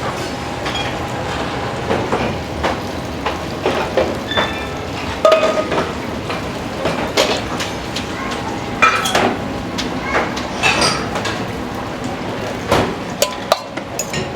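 Kitchen clatter: dishes, bowls and utensils clinking and knocking at irregular moments over a steady background hum.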